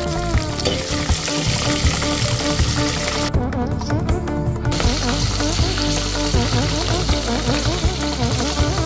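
Green chillies sizzling in hot oil in a steel pot, a steady crackling hiss that drops out for about a second and a half in the middle, over background music with a melody.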